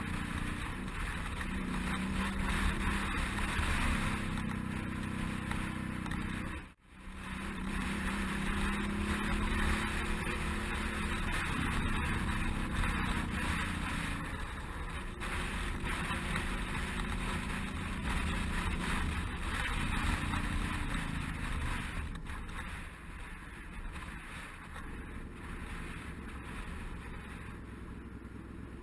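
Suzuki DL650 V-Strom's V-twin engine running on the move, its note stepping up and down with throttle and gear changes, over steady wind rush. The sound cuts out for a split second about seven seconds in.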